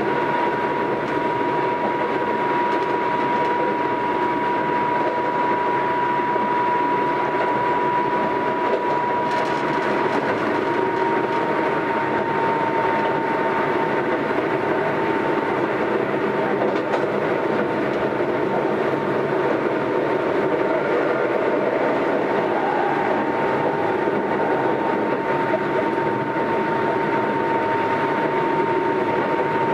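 Keisei AE100 series limited express electric train running at steady speed, heard from inside the passenger car: continuous rolling noise with a steady high whine, and the air-conditioning blower running weakly underneath.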